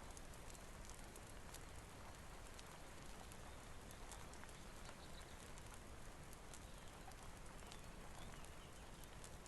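Faint steady rain hiss with scattered sharp crackles from a wood fire.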